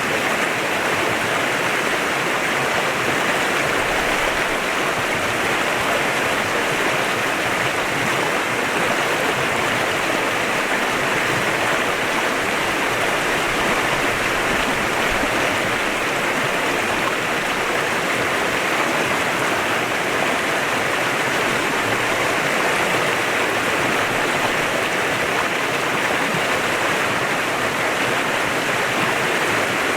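Clear mountain river flowing over rocks, a steady full rush of water with no change.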